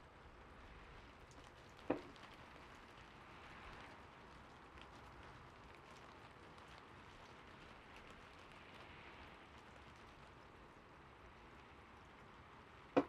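Gentle rain falling steadily, with two single sharp computer clicks, one about two seconds in and one at the very end.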